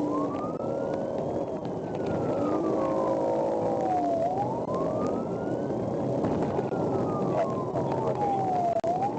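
Police car siren on its wail setting, sweeping up in pitch and then sliding slowly back down, twice through at about four and a half seconds a cycle, over a steady rumble of road noise.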